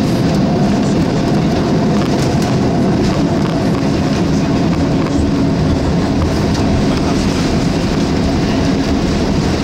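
Steady cabin rumble of a Boeing 787-8 rolling on the ground after landing, with wheel and airframe noise mixed with its Rolls-Royce Trent 1000 engines. A few faint ticks and rattles sound over it.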